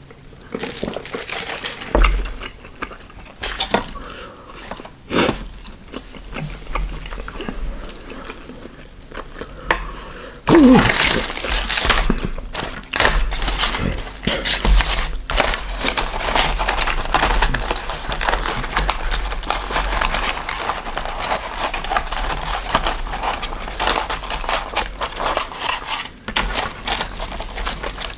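Close-miked eating sounds of a fast-food meal: biting, crunching and chewing, with clatter and scraping as food and containers are handled. The crackling grows denser and louder from about ten seconds in.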